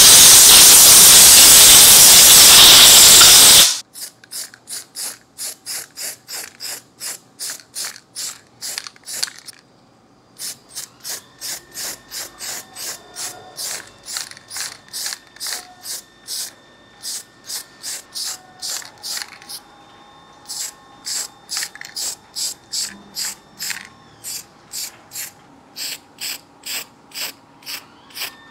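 A spray gun hissing in one long burst for about four seconds, then a rhythmic clicking rattle, about two to three strokes a second, pausing briefly twice.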